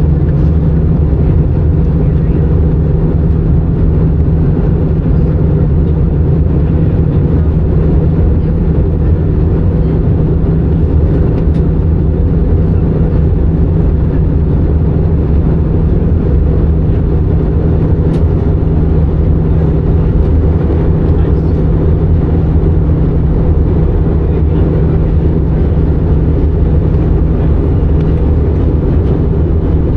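Airbus A319 airliner cabin noise on descent: a loud, steady drone of engines and rushing air with a deep, even hum.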